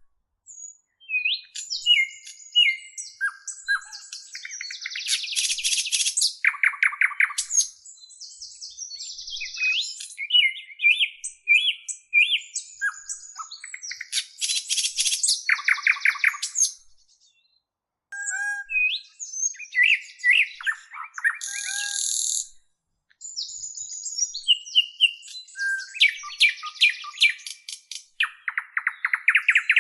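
A songbird singing long, varied phrases of chirps, whistled glides and fast rattling trills, broken by short pauses between phrases.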